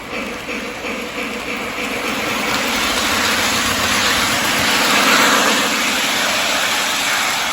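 Lionel LionChief 0-8-0 toy steam locomotive running on its track, its speaker giving a rhythmic steam chuffing over the rumble of the wheels, growing steadily louder.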